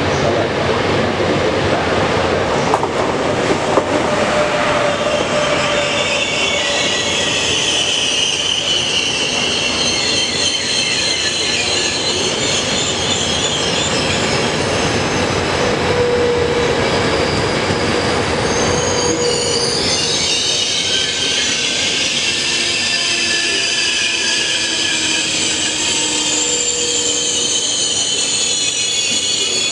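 Intercity train hauled by an E403 electric locomotive running in past the platform, its coaches rumbling over the rails. A high metallic squeal from the wheels sets in about six seconds in and grows stronger after about twenty seconds.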